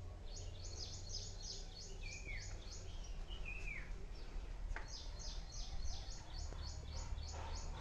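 Small birds singing: a quick run of high, evenly repeated chirps, about six a second, that stops for a couple of seconds and then starts again. Twice in the pause a short falling whistle sounds. A low rumble runs underneath.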